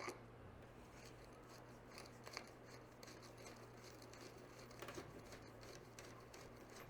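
Near silence with a few faint, short clicks and scratches, one a little sharper right at the start.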